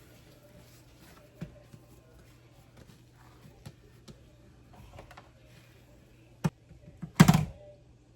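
Light clicks and taps of things being handled on a kitchen counter, then a sharp knock and, about a second later, a heavy thud as the bowl and bagel dough are handled, with a faint steady hum underneath.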